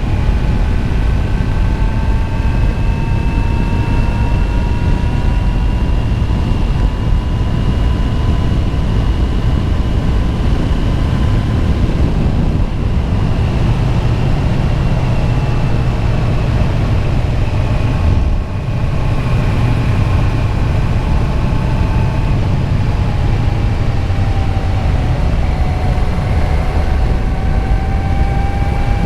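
Motorcycle cruising at a steady speed, its engine a steady hum under heavy wind rush on the rider's microphone. The engine pitch sags briefly about two-thirds of the way through, then climbs back near the end.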